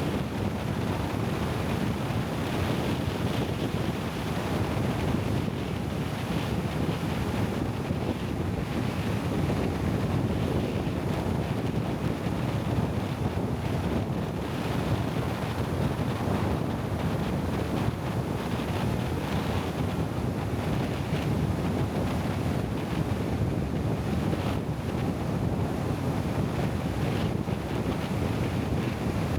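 Steady wind noise on the microphone: an even, low-heavy rushing with no breaks or distinct events.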